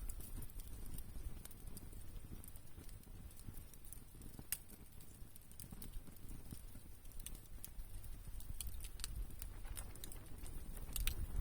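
Campfire burning, the wood crackling with scattered sharp pops over a low rumble.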